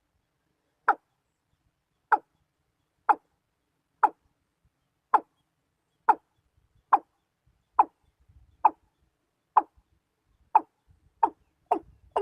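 Watercock calling: a series of short, evenly spaced calls about one a second, quickening near the end.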